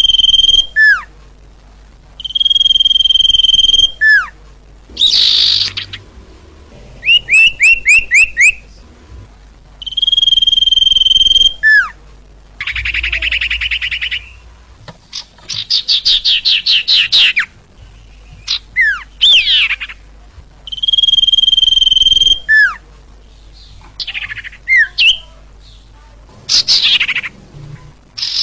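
Loud sirtu bird song: long steady whistles, each ending in a quick falling slur, repeated several times, alternating with a run of short quick notes, a buzzy rasping phrase and fast trilled phrases.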